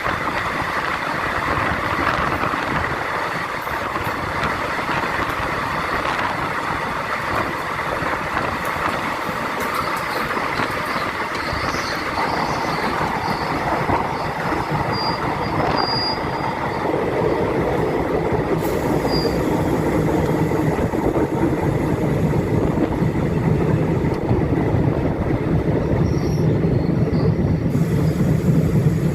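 Passenger train running on the rails, a steady rumble of the coach with faint high wheel squeals in the middle. A little past halfway the rumble turns deeper and slightly louder.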